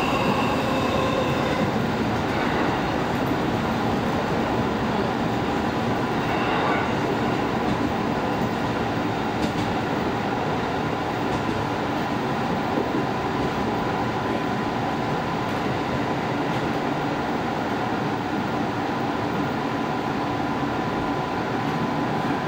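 Japanese commuter train running, heard from inside the passenger car just behind the driver's cab: a steady rumble of wheels and running gear, with a faint steady tone through the middle.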